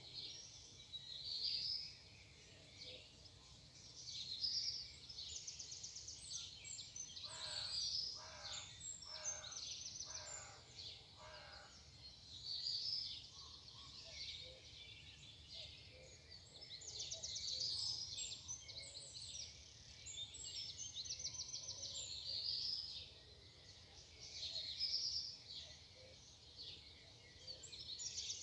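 Morning chorus of several songbirds singing over one another, with quick chirps and buzzy trills, and a run of lower calls repeated about once a second for several seconds near the middle. A faint steady low hum lies underneath.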